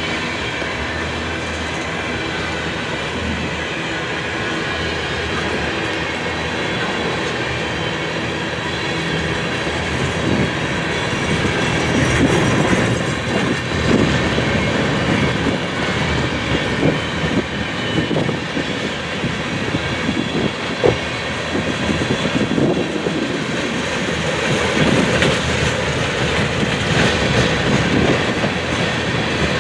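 Empty railroad tank cars rolling past, their wheels clacking over the rail joints. A steady rumble turns into a run of sharp clacks and knocks about a third of the way in.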